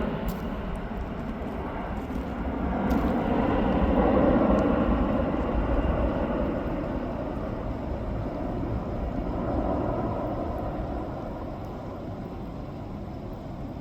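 Low-flying military aircraft passing overhead: a steady engine rumble that swells about four seconds in and again near ten seconds, then fades.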